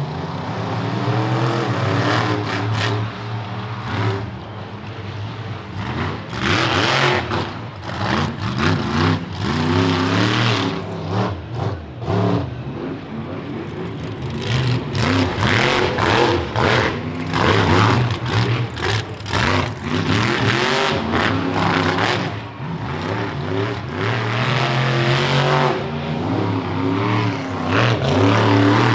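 Monster truck engine revving hard again and again, its pitch rising and falling in quick surges through a freestyle run.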